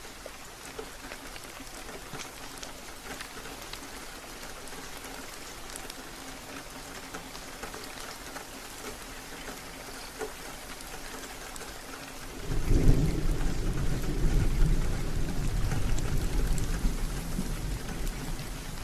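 Steady rain hissing with scattered drops. About two-thirds of the way through, a loud, low rumble of thunder breaks in and rolls on, slowly easing.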